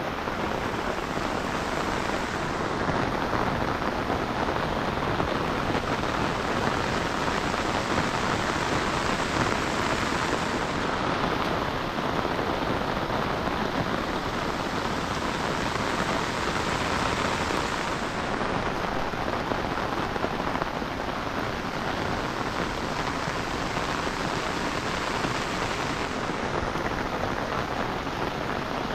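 Heavy rain falling steadily, a dense, even hiss that holds without a break.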